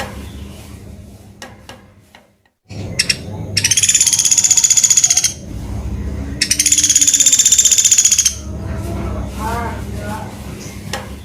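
Pelatuk beras bird calling: two loud, high, rapid trills of about two seconds each, a few seconds apart, with a few lower, softer notes in between.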